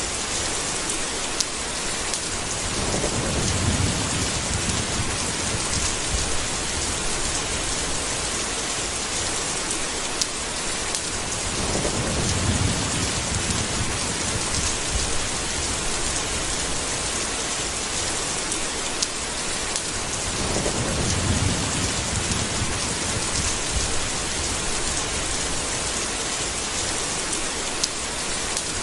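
Steady heavy rain. Low rolls of thunder rumble in three times, about every nine seconds, with a few single drip-like ticks over the rain.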